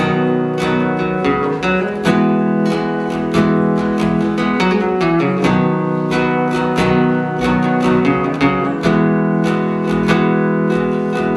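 Acoustic guitar strummed in a steady rhythm, its chords ringing on between strokes, with no singing.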